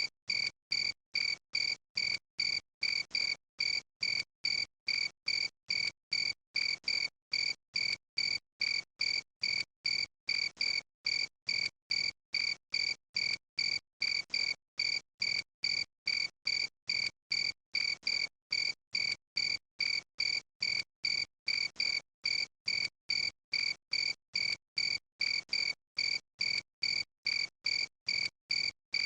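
Cricket chirping in a steady, even rhythm of about two short high-pitched chirps a second.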